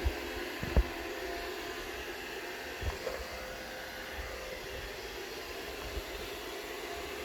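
Roomba robot vacuum running, a steady whirring hum from its vacuum motor and brushes, while it keeps trying and failing to dock. A few low thumps, the loudest about a second in and another about three seconds in.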